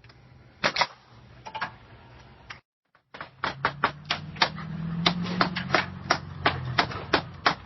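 A rapid run of sharp clicks, several a second, over a low hum, after a brief dropout about two and a half seconds in.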